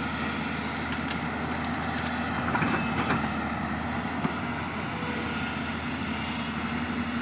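Large hydraulic excavator's diesel engine running steadily under work, with a short run of knocks and scrapes around the middle and a single sharp click a second later.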